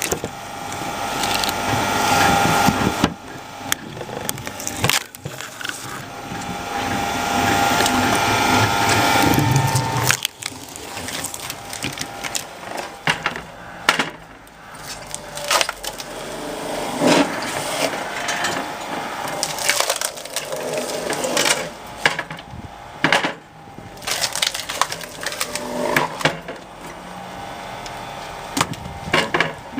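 Screw-cone log splitter boring into a log, the wood creaking, splintering and cracking as it splits. The strain builds up and breaks off sharply twice, about three seconds in and again about ten seconds in, followed by scattered cracks.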